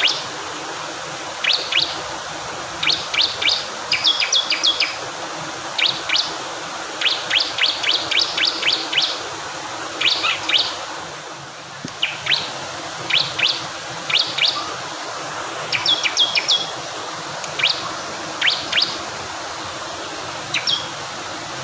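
Bar-winged prinia (ciblek kristal) calling in repeated short bursts of sharp, high chirps, two to six quick notes per burst with short gaps between. A steady rush of flowing water runs underneath.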